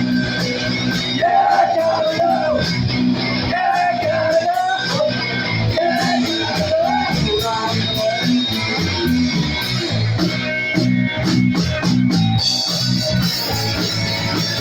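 Live punk rock band playing an instrumental break with electric guitar, bass and drums. A wavering lead line sounds over the band in the first few seconds.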